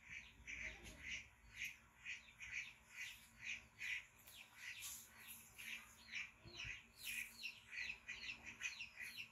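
Faint bird chirping: a steady run of short chirps, two or three a second.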